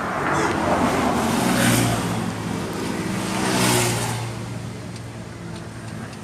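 An engine running steadily with a low hum, with loud hissing rushes near two seconds in and again near four seconds.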